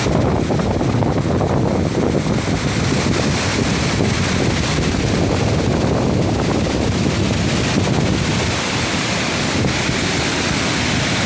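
Monsoon-fed waterfall rushing steadily, a loud even noise of falling water, with wind buffeting the microphone.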